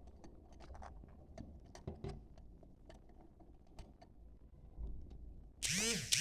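Budgerigars: scattered faint clicks and soft chatter, then near the end a loud call of two arching, rise-and-fall notes.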